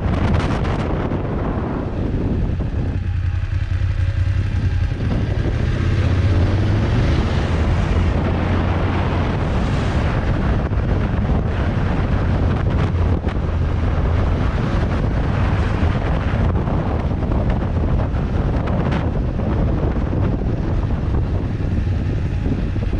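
Motorcycle riding along with its engine running steadily, heavily mixed with wind rushing over the microphone.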